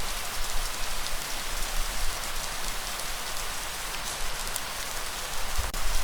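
Steady light rain falling, a constant hiss of drops with fine pattering ticks, over a low rumble.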